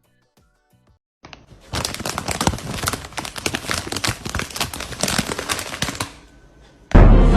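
Dense crackling, rustling noise made of many quick clicks, lasting about five seconds, then loud music starts near the end.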